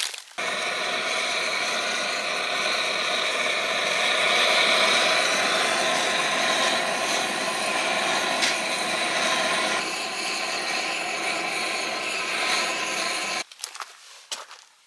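Gas torch flame running with a steady hissing roar and a thin whistle, starting suddenly and cutting off abruptly near the end, as it lights compressed coffee-grounds fire logs.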